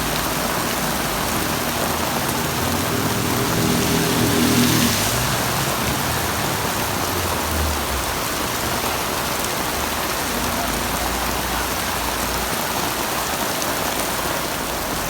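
Heavy rain pouring steadily, with a low steady hum swelling and fading in the first five seconds.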